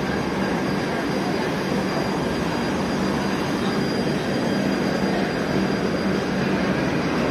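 Steady rumble and hum from a Shatabdi Express train's coaches beside the platform.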